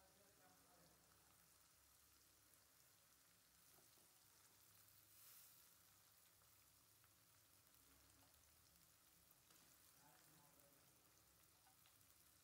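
Faint, even sizzling of a spice paste frying in a steel karahi, with a brief louder hiss about five seconds in as a heap of small fish goes into the pan.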